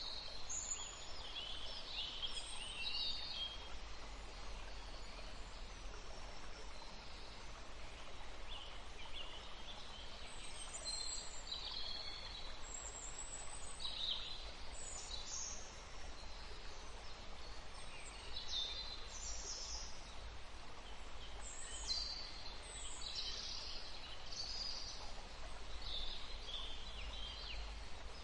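Several small birds chirping and singing in short, scattered calls and trills, high-pitched, over a steady low background rumble.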